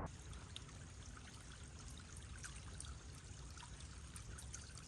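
Small stream trickling and babbling gently, a faint steady water sound with tiny splashes.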